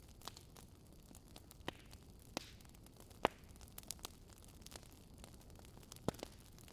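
Wood fire crackling, with scattered sharp pops and snaps at uneven intervals, the loudest a little over three seconds in, over a faint steady rush of the river.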